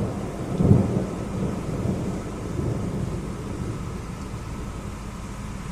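Thunder from a nearby cloud-to-ground lightning strike: a low rumble that swells about a second in, then slowly dies away.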